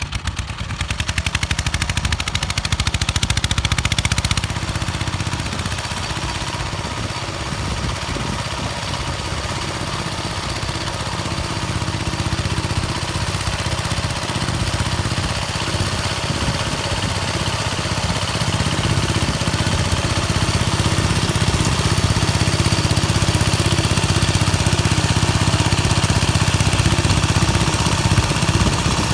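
Engine of a homemade mini-tractor built from a walk-behind tractor, running steadily under load while it drives a rotary tiller through the soil. It is loudest and pulsing in the first few seconds, dips slightly, then builds up again.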